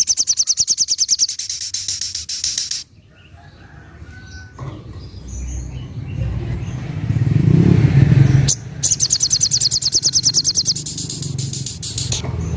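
Spiderhunter (sogok ontong) giving its rapid machine-gun trill, the "tembakan": a fast run of high, sharp notes, about ten a second. It comes twice, near the start and again about nine seconds in. Between the trills a low rumble builds and cuts off suddenly.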